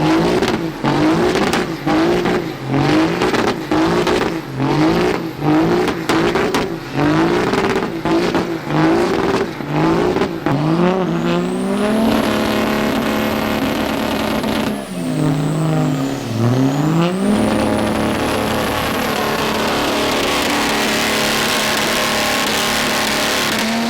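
Diesel truck engine revved in quick repeated blips, about one a second, then held at high revs with a brief drop and climb near the middle.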